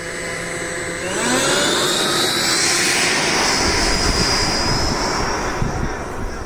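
Electric ducted-fan jet of a Freewing Stinger 90 RC model spooling up to takeoff throttle: a steady tone that rises sharply about a second in and settles into a loud, steady high whine with rushing air.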